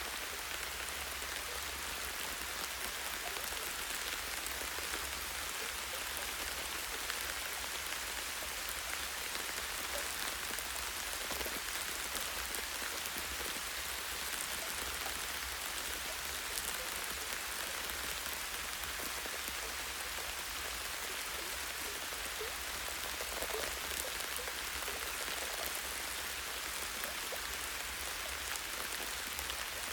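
Light, steady rain falling on tree branches and leaves, a soft hiss with scattered individual drop patters.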